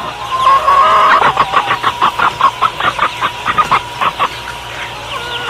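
Chicken clucking: a fast run of short, sharp calls, about five a second, easing off near the end.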